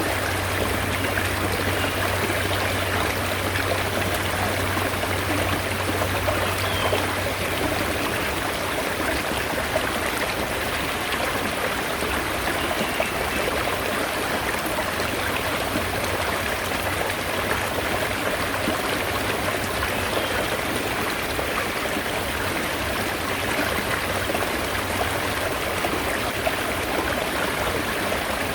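Mountain stream flowing steadily, a continuous rush of running water.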